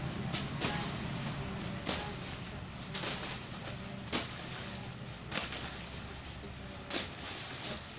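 Six sharp clicks or taps, a second or so apart, over a low steady hum.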